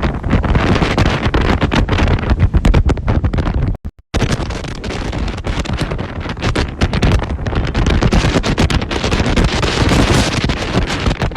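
Strong gusty storm wind buffeting the microphone in a loud, rumbling roar. The sound cuts out for a moment about four seconds in, then resumes.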